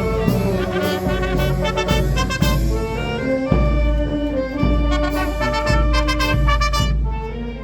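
Brass band music led by trumpets and trombones, playing a lively tune that fades out near the end.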